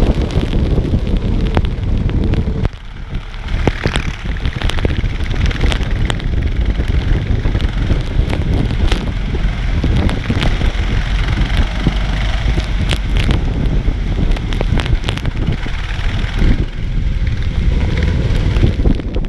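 Kart engine running during a wet race, with a steady rush of wind and rain noise and many sharp clicks throughout; the engine note drops briefly about three seconds in, then picks up again.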